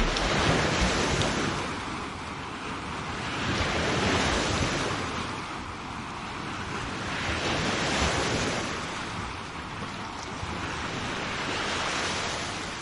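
Sea waves breaking and washing up a shore. The rush of surf swells and fades about every four seconds.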